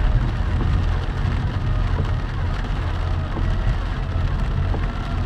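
Heavy rain falling on a moving car, over a steady low rumble of engine and road noise.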